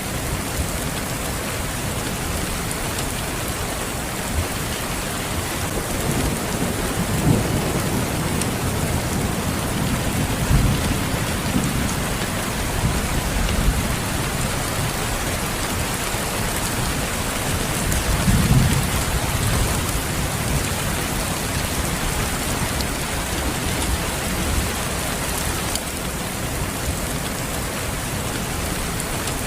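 Steady rain falling, with low rolling rumbles of thunder swelling up between about 6 and 14 seconds in and again around 18 seconds.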